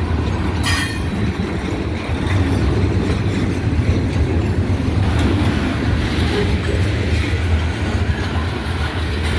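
Freight train cars rolling past, a steady low rumble with wheel clatter on the rails. A short, sharp high-pitched sound cuts through under a second in.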